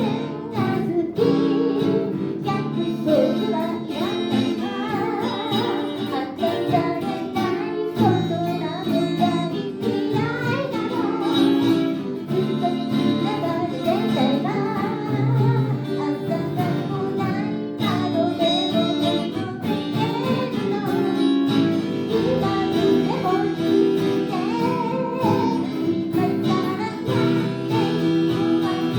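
A song played on guitar, with a voice singing over it.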